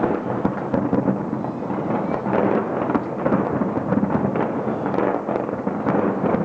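Fireworks going off in rapid succession: a dense, unbroken run of booms and crackling.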